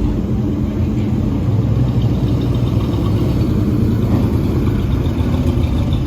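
A car engine running steadily at idle, a deep even rumble.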